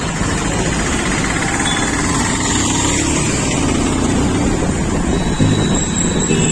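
Motorcycle running on the move through traffic, with a steady rush of wind and road noise over the rider's microphone.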